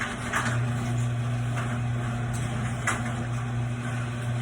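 Hunter Eclipse ceiling fan with its light on, giving a steady low electrical hum, with a couple of brief soft whooshes about half a second and three seconds in.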